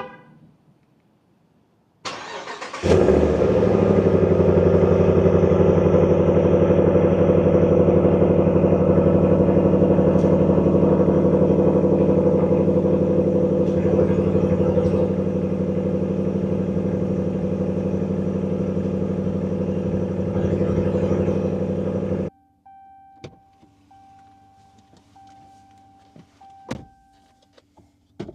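Car engine cranked and started about two seconds in, then idling steadily at one even pitch until it cuts off suddenly about 22 seconds in. After that come a few clicks and a short beep that repeats at regular intervals.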